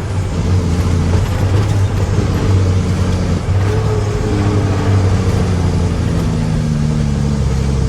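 Mack truck's diesel engine running steadily under way; about halfway through its pitch starts falling slowly, as the engine revs drop.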